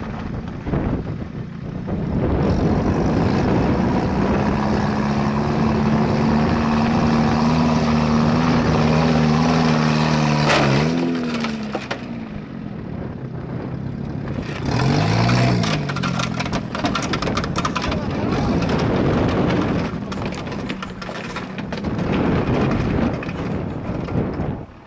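A Daihatsu sedan's engine run hard with all its oil and coolant gone and the oil pan torn loose, labouring and not revving up freely as the car slides and spins on wet gravel. The engine note holds steady for several seconds, then swoops up and drops away about eleven seconds in, with another short rise and fall a few seconds later.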